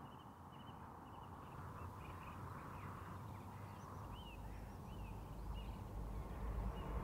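Faint chorus of small birds chirping, many short chirps and twitters overlapping. A low rumble comes in about halfway and slowly grows louder.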